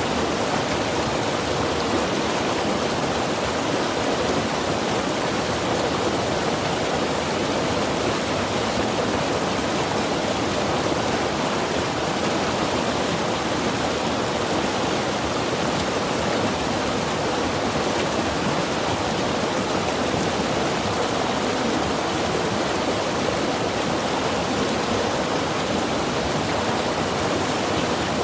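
Mountain river rushing steadily over rocks, an even wash of water noise that does not change.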